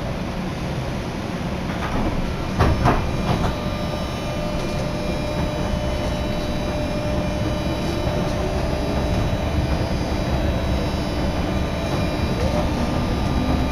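Interior of a JR Yamatoji Line electric train pulling away from a station: steady running rumble with a short run of clacks about two and a half seconds in, then a motor whine slowly rising in pitch as the train gathers speed.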